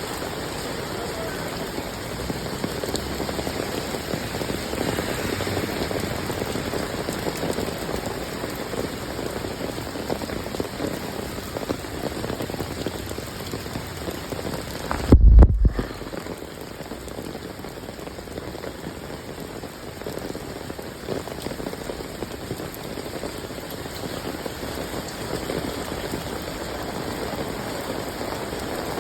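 Steady rain falling, an even dense hiss. About halfway through comes a short low thump, and the sound cuts out for a moment just after it.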